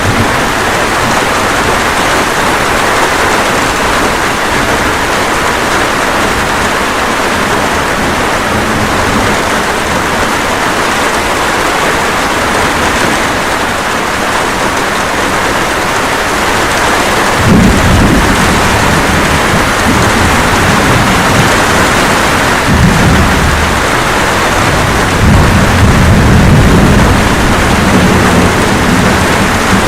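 Steady rain with thunder rumbling low underneath: a rumble swells a little over halfway through, and more roll in near the end.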